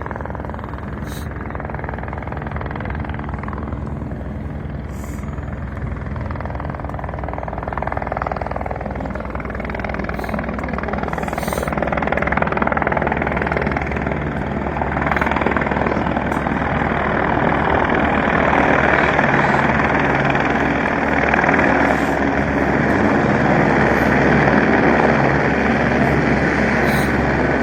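Helicopter turbine engine and rotor running, growing gradually louder as it winds up ahead of take-off.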